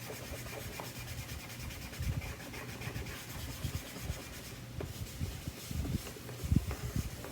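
Cloth rubbing and wiping over a plastic light cover to clean off sprayed-on plastic cleaner, an irregular scrubbing with occasional soft knocks.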